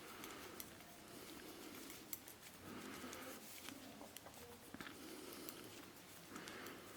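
Faint, scattered clicks of knitting needles and soft rustling of yarn as a row of purl stitches is knitted.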